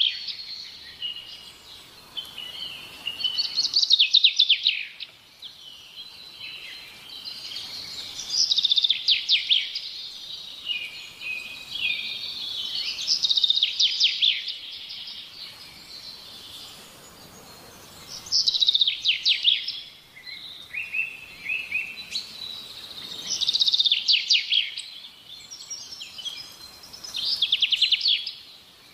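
A songbird singing, repeating the same short, high, fast-trilled phrase about every five seconds, with softer twittering between the phrases.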